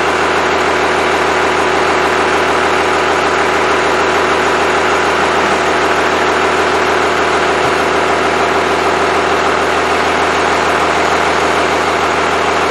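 Freshly rebuilt Cummins 5.9L 12-valve inline-six diesel running steadily at idle during its first run after the rebuild.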